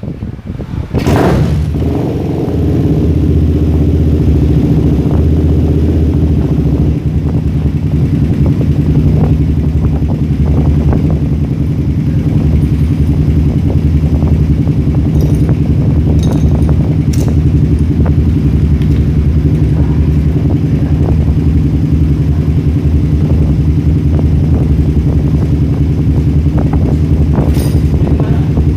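Suzuki Belang R150 motorcycle engine, freshly installed, catching about a second in and then idling steadily.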